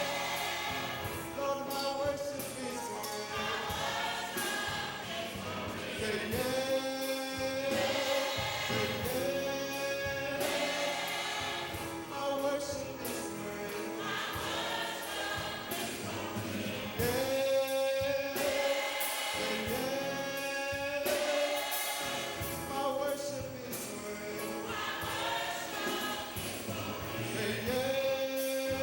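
Gospel choir singing a slow worship song, with long held notes.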